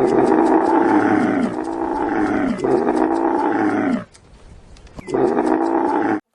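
A large animal's long, loud calls, each falling in pitch: three run together, then after a short pause a fourth, shorter one.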